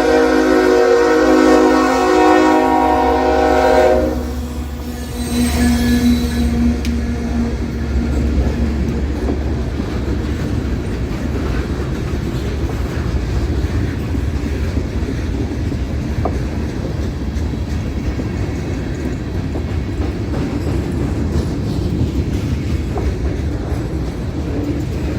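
A locomotive air horn sounds a multi-note chord and cuts off about four seconds in. After that comes the steady low rumble of the train and its wheels clacking over the rails as it runs past.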